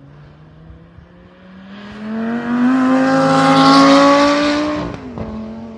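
Sports car accelerating past at full throttle, its engine note climbing steadily in pitch and growing much louder as it approaches. It is loudest about four seconds in, then the pitch drops sharply near the end as it goes by.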